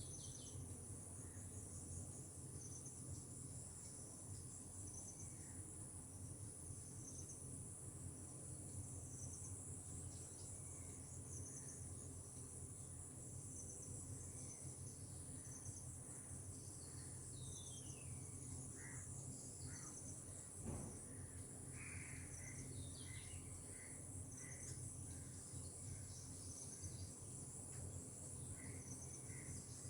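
Insects trilling steadily in a high, pulsing chorus, with scattered bird calls: a few short descending whistles and a run of repeated chirps in the second half. A single brief click sounds about two-thirds of the way through.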